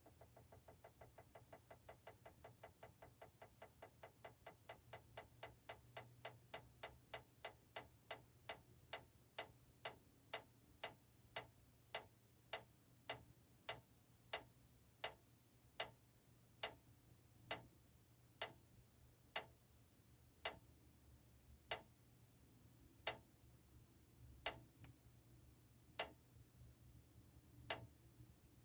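Faint, regular mechanical ticking that starts rapid and steadily slows down, ending at about one tick every second and a bit.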